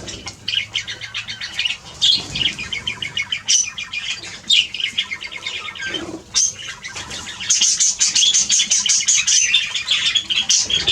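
A flock of birds chattering and squawking constantly, many rapid high calls overlapping, growing busier and louder in the later part.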